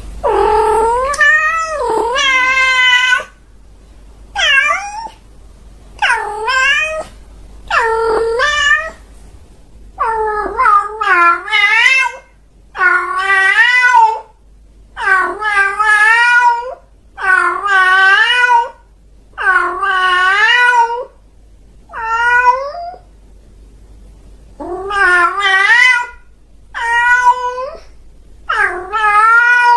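A domestic cat meowing over and over: about fifteen long, drawn-out meows, each rising and falling in pitch, with short pauses between them.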